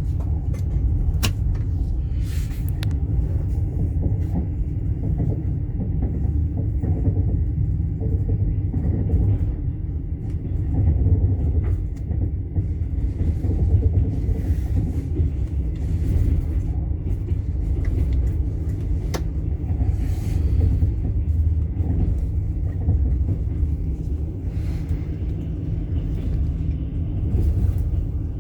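Steady low rumble of a moving passenger train heard from inside the carriage, with a few brief clicks.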